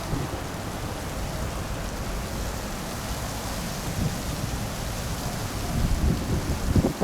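Strong gusty wind buffeting the microphone: a steady hiss with uneven low rumbles that grow stronger near the end.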